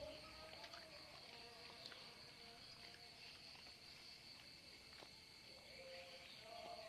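Faint, steady, high-pitched insect chirring, typical of crickets, with scattered faint clicks.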